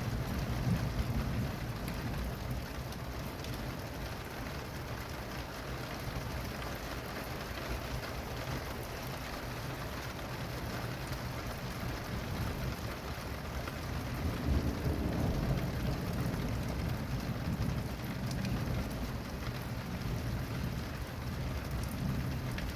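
Steady rain falling, with a low rolling rumble of thunder that eases off and then swells again a little past the middle.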